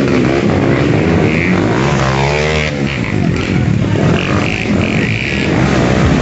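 Dirt bike engines revving, their pitch rising and falling, over a steady loud engine drone.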